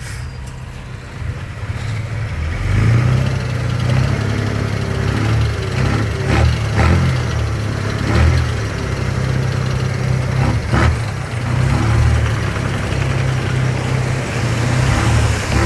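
Diesel engine of heavy earthmoving machinery running and working, its note getting louder about two and a half seconds in and rising and falling after that, with several sharp clanks.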